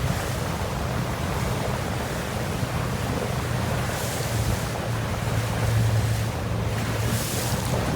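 Motorboat under way: a steady low engine hum under the rush of wind buffeting the microphone and water noise from the hull.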